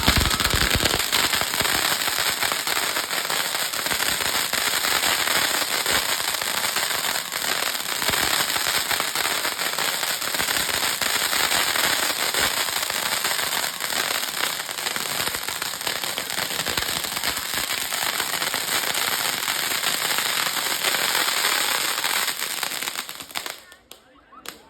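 Fireworks crackling in a continuous, dense rapid stream of small sharp pops, which stops abruptly near the end.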